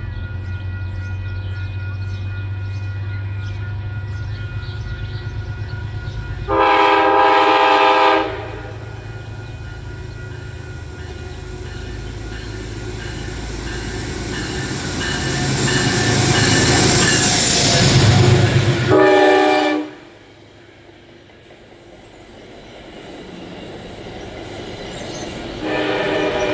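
Passing trains with three horn blasts: a steady low rumble, then a horn sounding for about a second and a half, the rush of a train passing that builds to a short horn blast and then cuts off, and another horn starting near the end.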